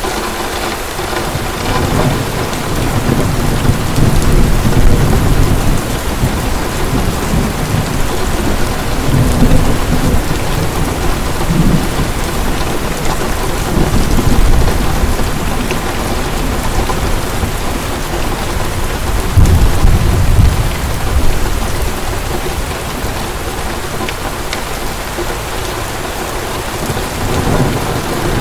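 Heavy rain falling steadily, with low rolls of thunder swelling and fading several times, the strongest about two thirds of the way through.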